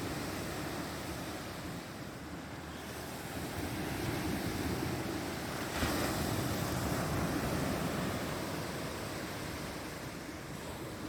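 Sea waves washing onto the shore, ebbing and swelling, with one wave breaking more loudly a little past halfway. Some wind buffets the microphone.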